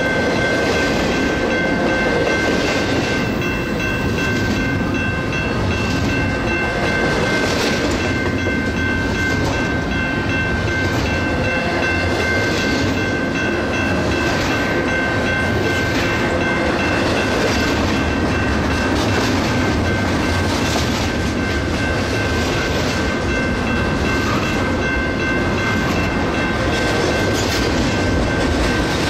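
Double-stack intermodal freight train's loaded well cars rolling past: a steady rumble of steel wheels on rail with recurring clacks, and a steady high-pitched tone over it.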